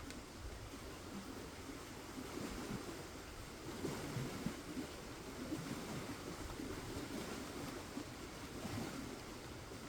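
Rain falling, a steady rushing hiss with an uneven low rumble of wind on the microphone.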